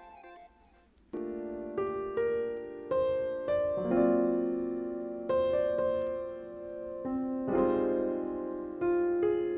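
Background piano music: after a near-silent first second, slow gentle notes and held chords.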